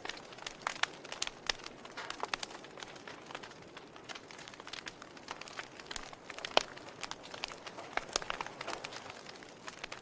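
Fire burning: a steady low hiss with irregular crackles and sharp pops, the loudest pop about six and a half seconds in.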